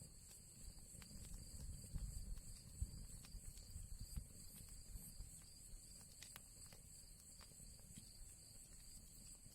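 Wood fire burning in an old chimney fireplace: faint, scattered small crackles and pops over a low rumble from the flames, with a steady high hiss throughout.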